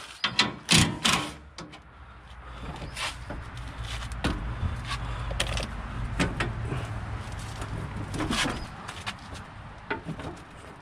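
A few sharp clanks, then a small electric motor, most likely a handheld power tool, running steadily for about six seconds as a fastener is loosened.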